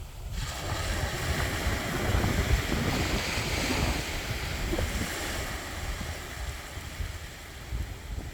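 Sea waves breaking and washing up a beach: the surf swells soon after the start, is loudest a few seconds in, then slowly eases off. Wind rumbles on the microphone throughout.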